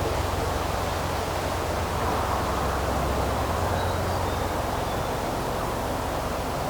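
Steady outdoor ambient noise, an even rushing hiss with a low rumble under it that fades out about halfway through. A faint, brief high bird note comes about four seconds in.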